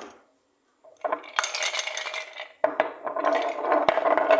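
Rapid clinking and rattling of utensils against dishes. It starts about a second in and comes in two stretches, the second louder, with a ringing tone in it.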